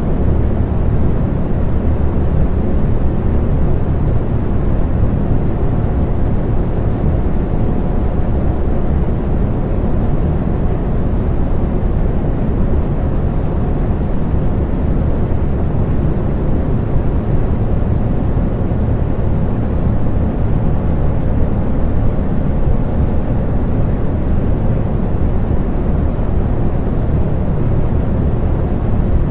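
Electric fan running steadily: a constant low whooshing rush of moving air with a faint steady hum.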